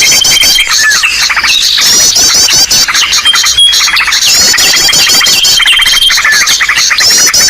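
Bird-lure call recording: a loud, dense mix of small birds' chirps, rapid trills and a held high whistle, repeating in a loop every couple of seconds. It is played to draw wild birds in.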